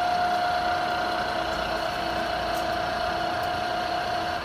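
Summit engine lathe's carriage on power rapid traverse: a steady whine over the machine's running noise, cutting off right at the end as the rapid stops.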